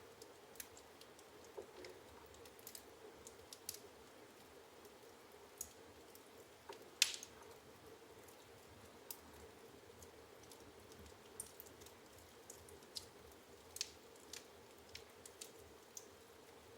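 Firewood burning in a fireplace, crackling with sparse, irregular sharp pops, the loudest about seven seconds in, over a faint steady hum.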